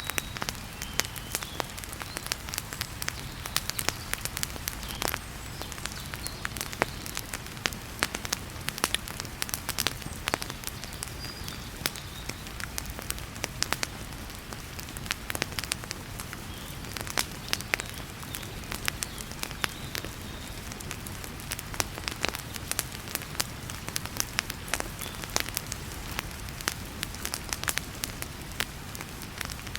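Wood fire crackling in a fireplace, with frequent sharp, irregular pops and snaps over a steady hiss of heavy rain.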